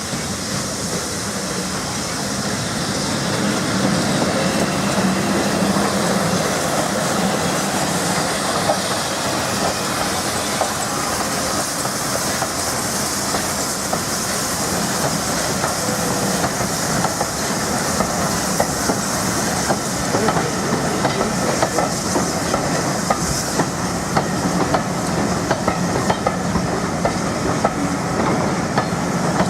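A heritage railway train running steadily along the line, its wheels clicking over the rail joints. The sound builds a little over the first few seconds, then holds even.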